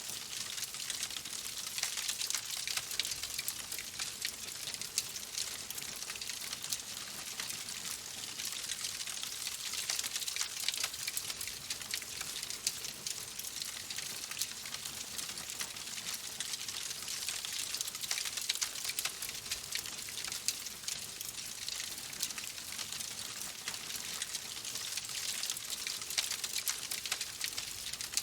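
Wood fire in a fireplace crackling: a dense, continuous stream of small pops and snaps over a soft hiss, swelling gently every several seconds.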